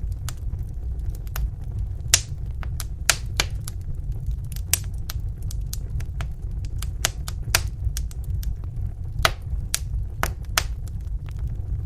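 Wood fire in a fireplace crackling: sharp, irregular pops and snaps, sometimes several close together, over a steady low rumble.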